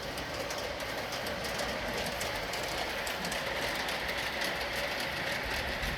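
LGB G-scale model locomotives running along garden railway track: a steady whirr of motors and wheels on the rails with many light, rapid clicks, growing slightly louder.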